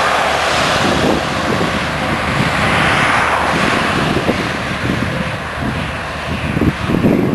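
Gusty wind buffeting the microphone, over the rushing of road traffic passing on the highway.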